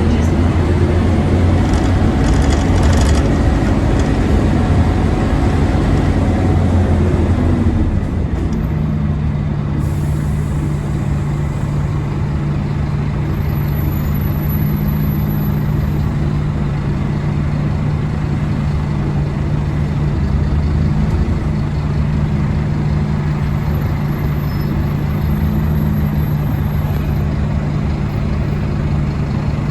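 Scania OmniCity N230UD bus's 9-litre five-cylinder diesel running loud, its note dropping about eight seconds in and then holding steady. The bus is a 'hoover', a loud one in poor condition.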